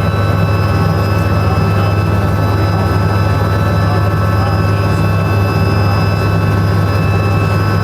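Helicopter in flight heard from inside the cabin: a loud, steady drone with a deep low hum and a few thin, steady whining tones above it.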